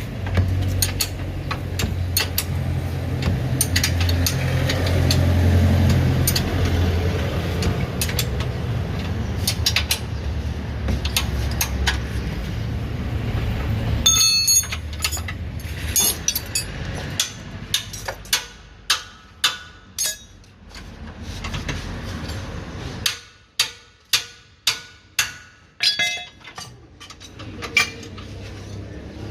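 A steady low rumble with occasional light clicks, then from about halfway a string of sharp metallic clanks with short ringing. Near the end the clanks come in a quick run of about two a second: tools striking and knocking metal suspension and underbody parts during repair work under a car.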